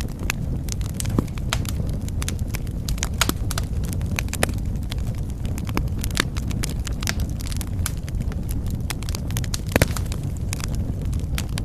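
Wood fire burning in a fireplace: a steady low rumble of flames with many irregular sharp crackles and pops, one louder pop near the end.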